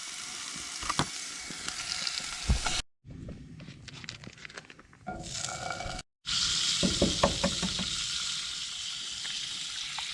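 Food sizzling in a skillet with a steady frying hiss, with a few light knocks and scrapes. The sound drops out abruptly twice, about three and six seconds in.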